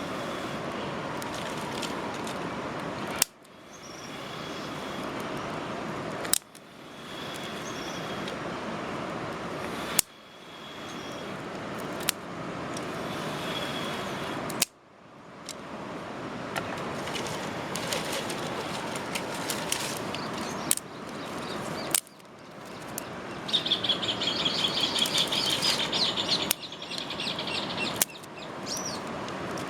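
Outdoor ambience: birds chirping in short high notes over a steady hiss with scattered sharp clicks, and a fast chattering bird call a little after two-thirds of the way in. The sound cuts out abruptly several times and fades back in.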